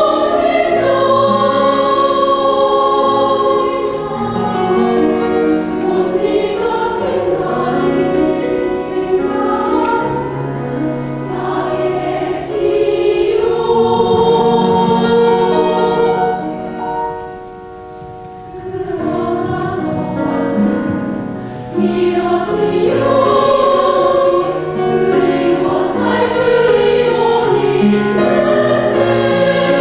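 Buddhist temple choir singing a hymn in held, sustained notes; the singing drops away briefly about two-thirds of the way through, then the choir comes back in.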